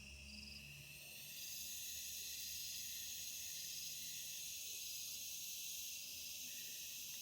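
A chorus of insects keeping up a steady, high-pitched shrill, which swells a little about a second and a half in, with a short chirp repeating about once a second.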